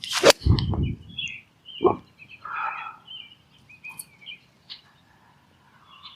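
A 7-iron striking a golf ball: one sharp crack just after the start, followed by a brief low rumble. Birds chirp through the rest.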